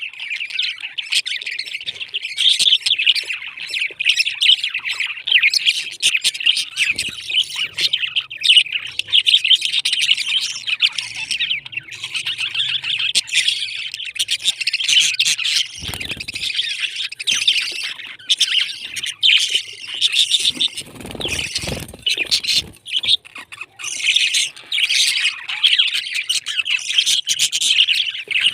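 Pet parrots chirping and squawking in a continuous, dense high-pitched chatter.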